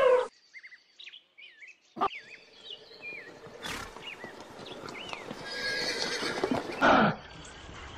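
A horse whinnying, with a loud short burst just before the end, over small birds chirping in the background.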